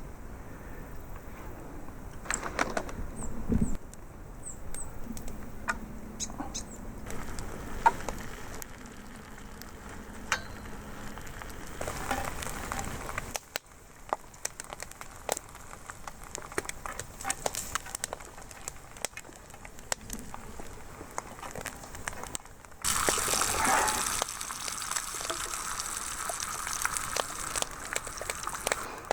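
Campfire cooking: scattered clicks and knocks of camp cookware over a crackling wood fire, with a louder hissing stretch for the last several seconds.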